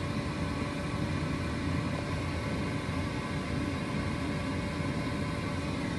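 Vehicle engine running steadily, a constant low hum with a faint whine above it and no revving.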